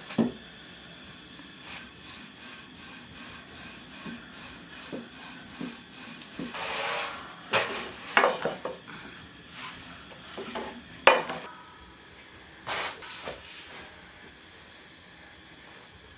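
Kitchen handling sounds: scattered knocks and clacks of dishes and utensils on wood, with stretches of rubbing and scraping over a faint steady hiss. The loudest knock comes about eleven seconds in.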